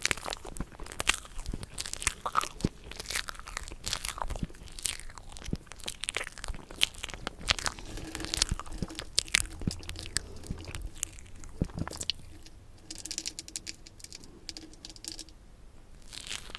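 Close-miked crunching and chewing of crunchy food, ASMR-style eating, with many sharp crackling bites that grow softer after about twelve seconds.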